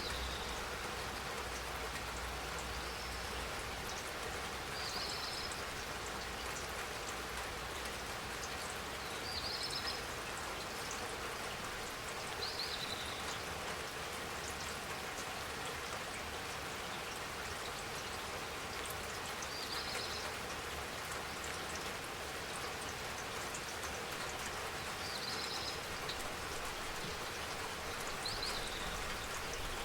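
Steady spring rain pattering, with fine drop ticks. A short high chirp sounds every few seconds over it.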